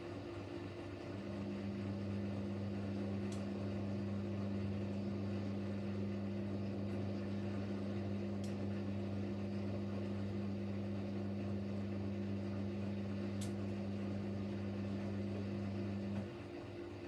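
Siemens Siwamat Plus 574 washing machine's drain pump humming steadily as it pumps out the rinse water, cutting off suddenly near the end.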